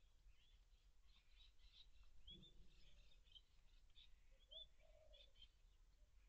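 Faint birdsong: small birds giving short high chirps and twitters throughout, with a lower, longer call about four and a half seconds in, over a steady low hum.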